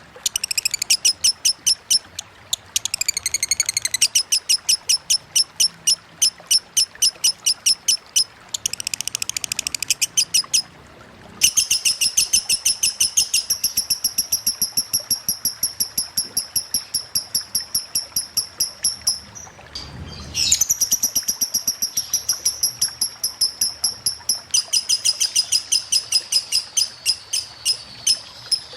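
Lovebird singing long, fast chattering runs of high, rapid chips repeated several times a second, the unbroken 'konslet' style of song. The runs break off briefly about 2.5, 11 and 20 seconds in.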